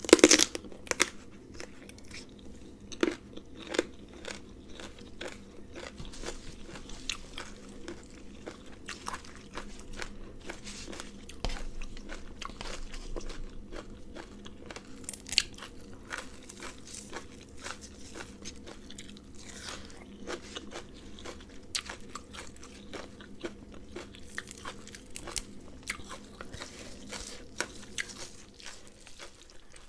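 A person biting and chewing crunchy raw vegetables with a noodle salad: a long run of small crisp crunches and mouth clicks, with a few louder bites near the start and about midway.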